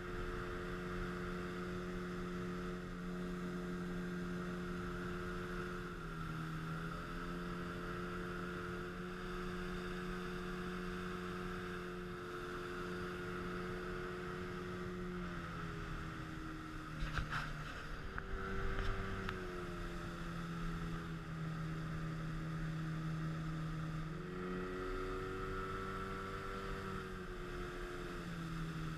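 Speedboat engine running steadily under way, with water and wind hiss. Its pitch dips briefly about six seconds in, settles lower around the middle and comes back up near the end. A few sharp knocks, like the hull slapping waves, come about two-thirds of the way through.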